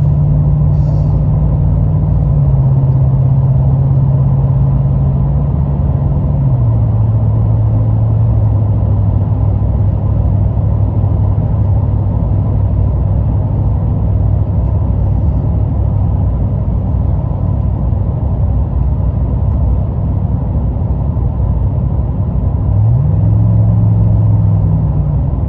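2021 Chevy Silverado's 6.2-litre V8 running through a muffler-deleted exhaust with the flapper valve kept, giving a loud, steady low drone. Its pitch steps down twice in the first few seconds, then rises briefly and falls back near the end.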